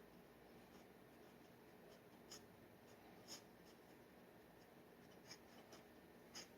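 Faint scratching of a steel G nib dip pen on paper: about five short, quick strokes over a low steady hiss.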